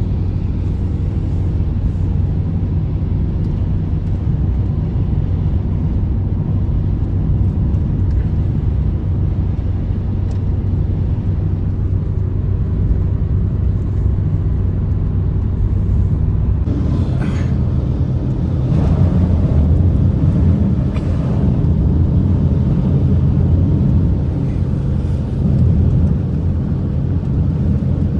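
Blizzard wind as a loud, steady low rumble, growing stronger and gustier from about halfway through.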